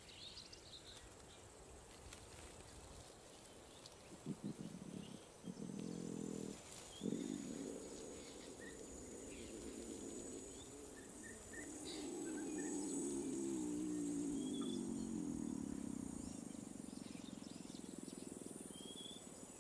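Lion giving low, drawn-out calls, the longest lasting several seconds near the middle, fairly faint. Birds chirp and insects buzz steadily in the background.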